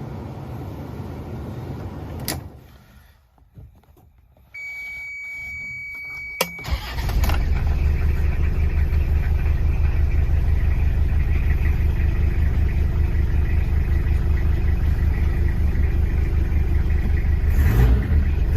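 A sharp click, a quiet pause, then a steady electronic beep for about two seconds while the glow plugs heat. Two clicks follow, and the Toyota Hilux's diesel engine catches almost at once on a cold start and settles into a steady idle.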